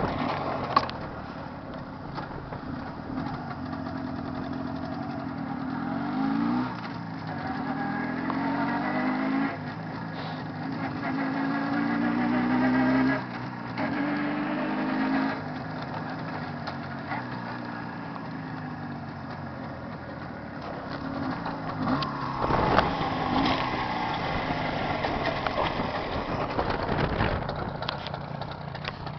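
Jawa 634 two-stroke twin engine running during run-in, revved up several times, its pitch climbing steadily and then dropping sharply as the throttle closes.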